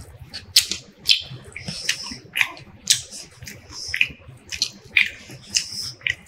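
Close-up eating sounds: wet chewing and lip smacks, a string of short, sharp clicks about once or twice a second.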